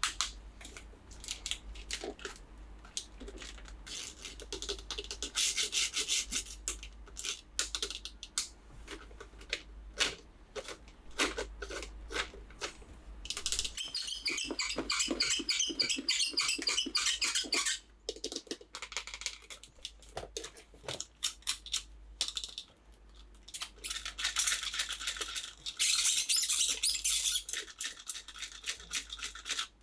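Hands handling toys and their packaging during an unboxing. Scratchy rubbing and scraping comes in three stretches of a few seconds each, with light taps and clicks in between.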